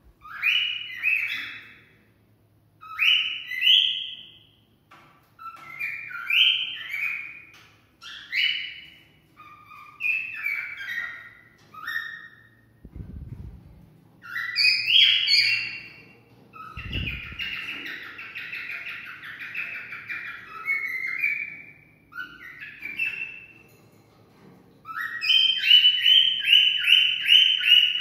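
Cockatiel whistling and singing in short phrases of rising and falling notes, with a stretch of chattering partway through and a quick run of repeated notes near the end.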